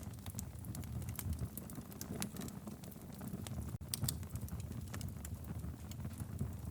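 Wood fire in a fireplace crackling and popping: irregular sharp snaps over a steady low rumble of the flames.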